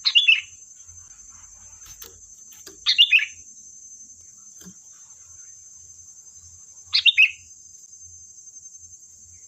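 Sooty-headed bulbul (kutilang) calling in short bursts of three or four quick falling notes, three times a few seconds apart, over a steady high-pitched hiss.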